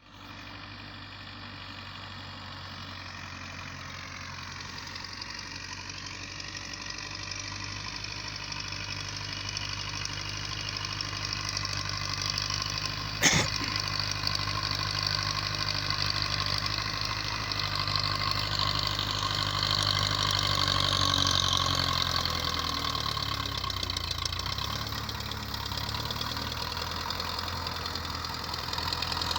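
Tractor engine running steadily and growing louder, with one sharp knock about halfway through. Near the end its pitch dips and recovers, as if the engine is taking up load.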